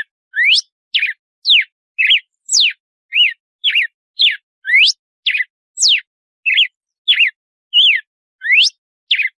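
Red-cowled cardinal (galo-de-campina) singing its 'açoite' song: a steady series of clear whistled notes, about two a second, mixing quick rising sweeps, falling sweeps and short arched notes.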